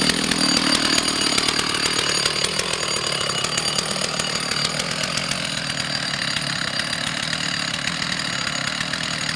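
Chainsaw running steadily under load, cutting into a tree trunk.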